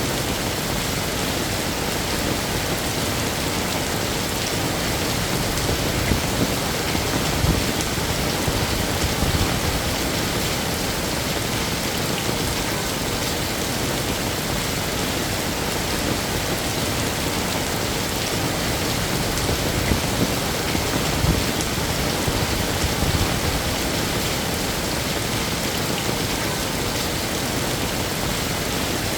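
Heavy rain falling steadily, a dense even hiss of drops, with a few low rumbling swells about a third of the way in and again past the middle.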